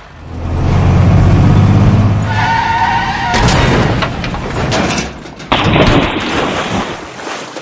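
A run of cartoon sound effects: a low rumble for the first two seconds, then a brief tone, then clattering with many sharp knocks and a noisy stretch near the end.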